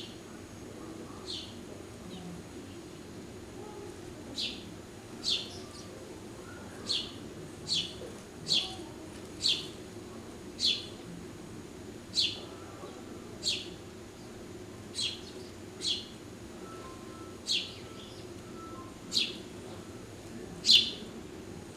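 A small bird giving short, sharp, high chirps over and over, roughly one a second with irregular gaps, the loudest near the end, over a steady low background hum.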